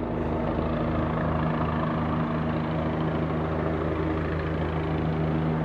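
Police helicopter flying overhead with a steady drone of engine and rotor and a fast, low beat underneath.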